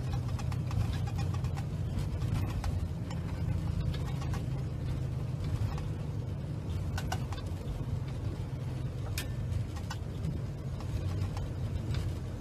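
Steady low rumble of engine and airflow noise inside an airliner flight deck, with a few faint scattered clicks.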